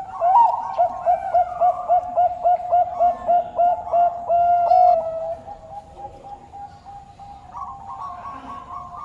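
Bangkok turtledove cooing: a quick run of short, even coos, about four a second, ending in one longer note about five seconds in, followed by fainter calls over a steady background tone.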